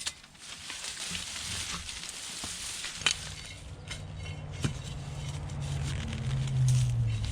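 Rustling and scraping of straw and soil as potatoes are dug out by hand, with a couple of sharp clicks. A low steady hum comes in about halfway and grows louder near the end.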